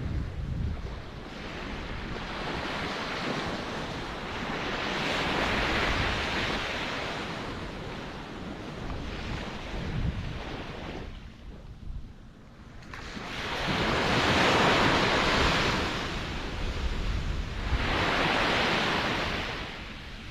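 Ocean waves breaking on the shore, the surf rising in three loud swells with a quiet lull between them.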